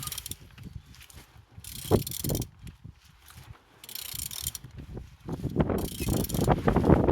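Opel/Vauxhall Z13DTJ 1.3 CDTI diesel engine being turned over by hand, with irregular mechanical clicking and scraping from the crank and pulleys. It turns freely, the sign that the engine is not seized.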